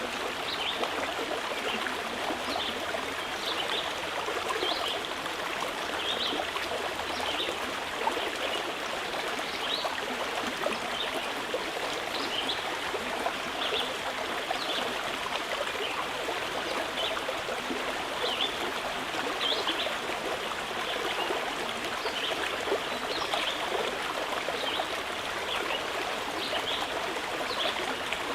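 Mountain river running steadily, with short, high bird chirps every second or two.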